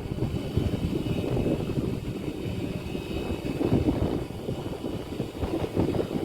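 Wind buffeting the microphone aboard a passenger ship under way, a gusty rushing low noise over the ship's steady running, with a faint high whine.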